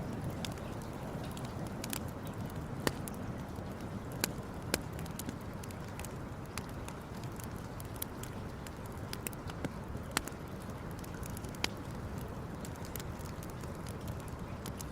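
Campfire burning, with irregular sharp crackles and pops from the wood over a steady low rushing background.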